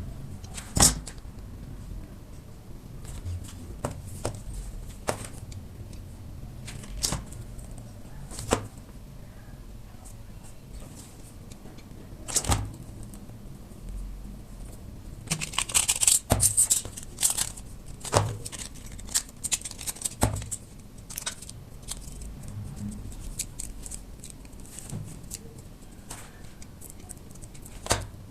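Handwork with thin aluminium drink-can pieces: scattered clicks and taps, with a short burst of crinkling about halfway through.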